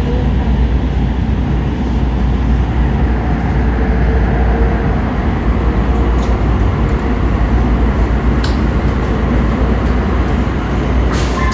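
Light-rail train running at speed, heard inside the passenger car: a steady low rumble of wheels on the track. A faint steady whine comes in midway, a few light clicks sound, and there is a sharp click just at the end.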